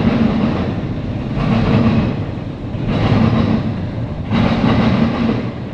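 CSX intermodal freight train rolling past, its cars and wheels giving a steady rumble that swells and eases about every second and a half.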